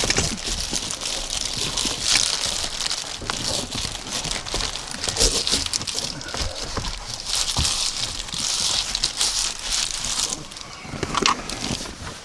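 Crinkling and rustling of window-cover panels being handled and fitted over the windows, with scattered light clicks and knocks.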